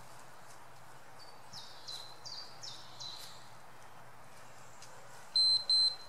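Outdoor ambience with a bird calling: a run of four short, high notes that each step downward, then two loud, short, high notes near the end.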